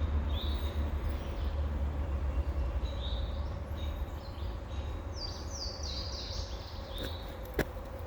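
A small bird chirping, a run of short high notes repeated several times through the middle of the stretch, over a steady low rumble. A single sharp click about three-quarters of the way through.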